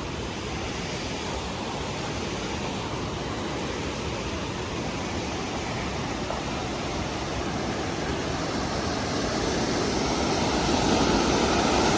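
A steady rushing noise that grows louder over the last few seconds.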